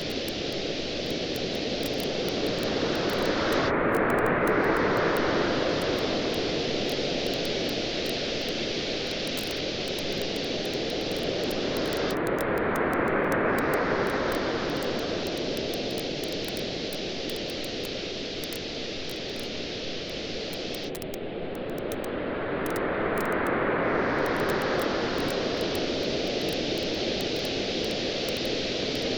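Ocean waves washing on a beach over a steady hiss of surf, swelling three times about every nine seconds, with a campfire crackling and popping in quick small snaps throughout.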